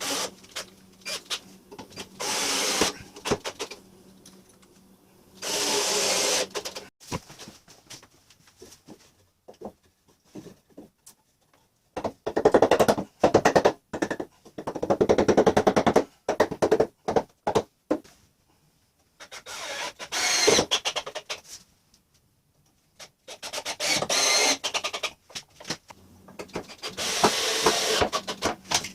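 Power drill/driver run in short bursts, about seven of them spread across the stretch, driving screws into scrap lumber; in the middle there is a longer stretch of rapid pulses.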